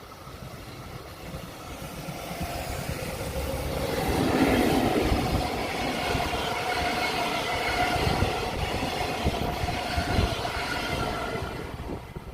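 Long freight train passing at speed: it grows louder as it approaches and is loudest about four seconds in. The wagons' wheels then clatter over the rail joints in a steady stream under a high whine, and the sound falls away near the end.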